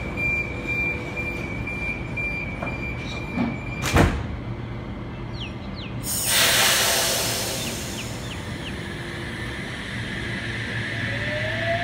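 Electric passenger train at a station platform: a steady high door-warning tone, then the sliding doors shut with a sharp bang about four seconds in. About two seconds later comes a loud burst of compressed air hissing that fades away, and near the end a rising whine starts.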